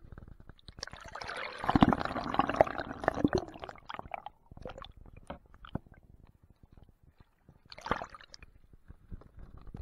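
Water sloshing and gurgling in two bursts: a longer one from about one to four seconds in and a short one near eight seconds.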